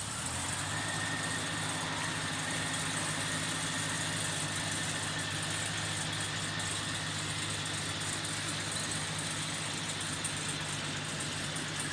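1999 Jeep Cherokee engine idling steadily just after a cold start on a cool morning, with a faint steady high whine over the low running note.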